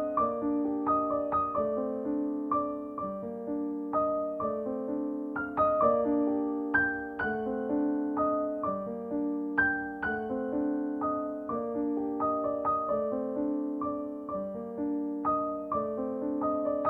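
Gentle background piano music: a soft repeating pattern of notes with sustained chords.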